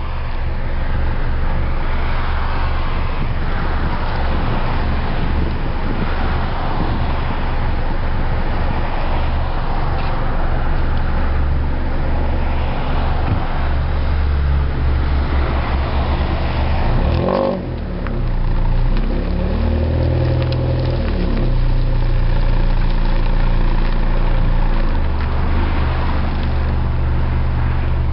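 Exhaust of a 2002 Pontiac Grand Am's four-cylinder Ecotec engine, running with no catalytic converter and no resonator, heard close at the tailpipe while driving. A steady drone, with a short drop in level about seventeen seconds in, then the pitch rising for a few seconds as the engine pulls through the revs before levelling off.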